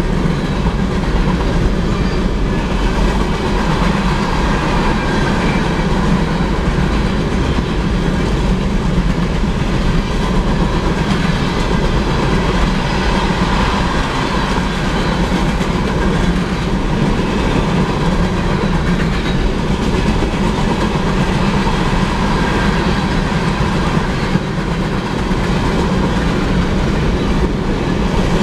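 Freight train of ore hopper cars rolling past at a steady speed: a continuous rumble with wheels clacking over the rail joints.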